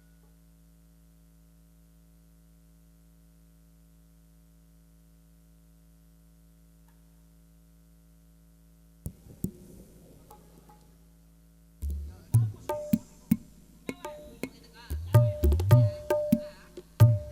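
Steady sound-system hum, then a hand drum played through PA speakers: a few light taps about nine seconds in, growing from about twelve seconds into loud, irregular strokes that mix deep bass thumps with sharp slaps.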